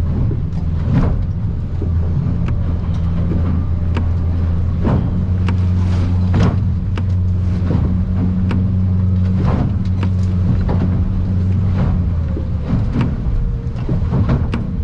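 An aluminium boat's outboard motor runs at a steady cruising drone, with irregular sharp knocks and slaps as the hull pounds through rough swells and spray. The drone eases off about twelve seconds in.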